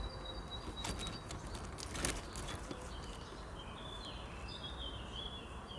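Small birds calling with thin, high, stepped chirps, over a steady low background noise, with a couple of sharp clicks about one and two seconds in.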